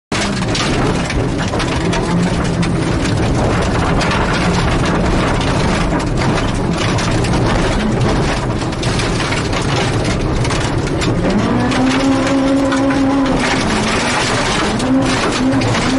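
Mitsubishi Mirage dirt-trial car at speed: the engine running hard over a steady rush of noise, its pitch climbing about 11 seconds in and rising and falling again near the end.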